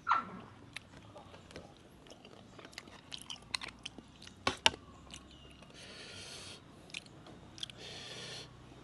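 Close-up eating of a spicy papaya-and-seafood salad: chewing and crunching with scattered sharp bite clicks. A dog's short falling yelp comes at the very start, and two brief hissing spells come near the end.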